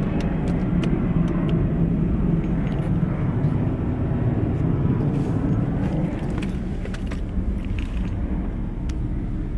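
Steady low mechanical hum from a 2020 Nissan Maxima, a little stronger for the first six seconds.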